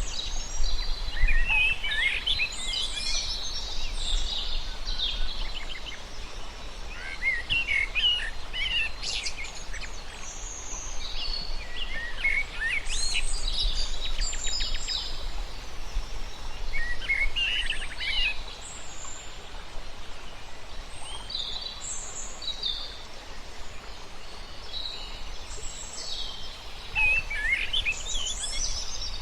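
Several birds singing and calling in short, overlapping phrases throughout, over a steady low rumble.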